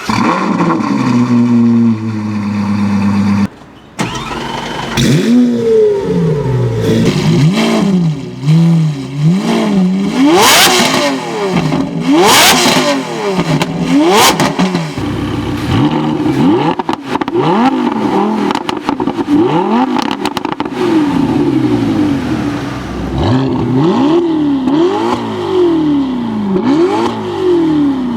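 Novitec-tuned supercar engines with aftermarket exhausts, accelerating hard through the gears, the pitch climbing and dropping with each upshift, again and again. There is a brief break about four seconds in, and a few loud sweeps as cars rush past near the middle.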